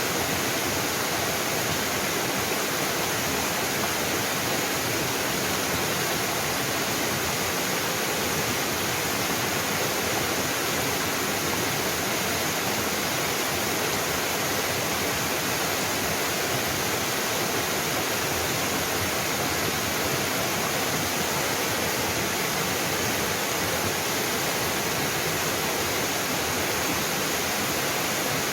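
Small mountain waterfall splashing steadily into its pool, an even rushing of water with no breaks.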